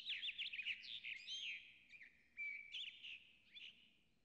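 Small birds chirping in quick, varied, sweeping notes, dense at first and thinning out after about a second and a half.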